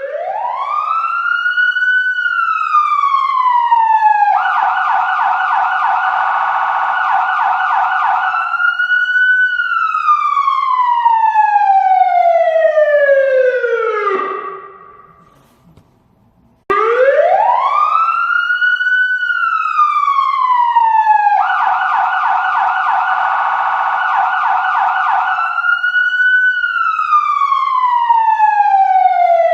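Police siren: a wail that climbs and slides slowly down, then a rapid warble for about four seconds, then another slow wail that fades out. After a short pause the same sequence repeats.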